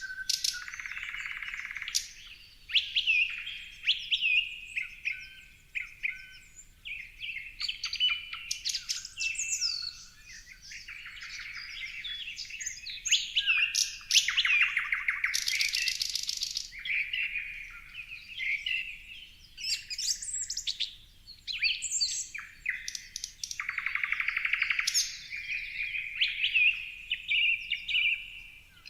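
Several songbirds chirping and calling, many short overlapping calls and whistled notes, with a fast buzzy rattle about halfway through.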